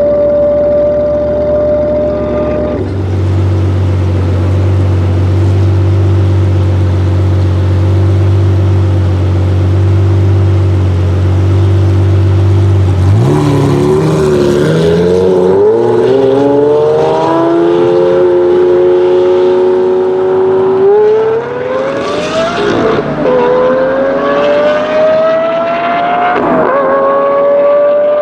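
Lamborghini Murciélago LP640's V12 engine through an iPE exhaust, holding a steady note at first. About halfway through it accelerates hard, the pitch climbing and then dropping back at three quick upshifts near the end.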